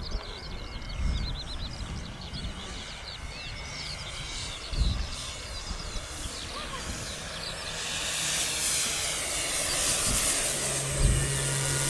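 Electric-powered radio-controlled model aeroplane (a Seagull Grasshopper fitted with an electric motor) coming in on a low pass, its motor and propeller hiss growing louder over the last few seconds. Small birds chirp rapidly through the first half, and there are a few low thumps.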